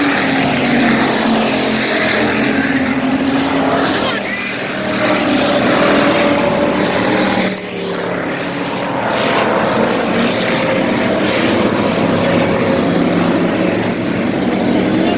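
Several race car engines running hard around the track in a steady loud drone, swelling and easing as the cars pass.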